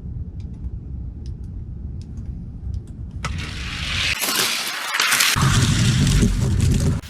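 Die-cast toy cars racing down a gravity track: a low rolling rumble of wheels on the track grows into a loud clattering rush about three seconds in, then stops abruptly near the end.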